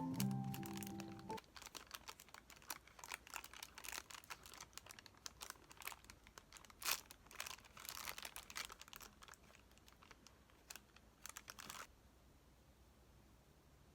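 Background piano music ends a second or so in, then a run of quick, light clicks and crinkling from small objects being handled close by. It stops about two seconds before the end, leaving faint room tone.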